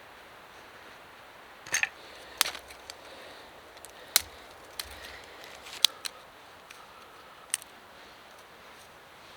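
A few scattered sharp clicks and snaps, irregularly spaced, over a faint steady background hiss.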